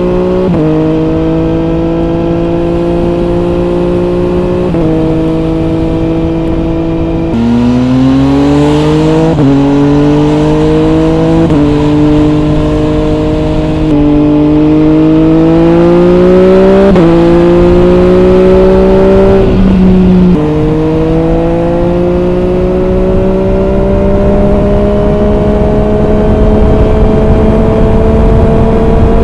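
MV Agusta Brutale 800 RR's three-cylinder engine through a trio exhaust with the dB killer fitted, ridden hard: engine note climbing in pitch under load, jumping to a new pitch every two to three seconds as the gears change, then one long, slow rise in a higher gear near the end.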